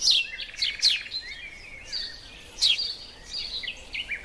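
Small birds chirping and singing: quick, high notes that sweep downward, with short steady notes between them and a brief buzzy trill about half a second in.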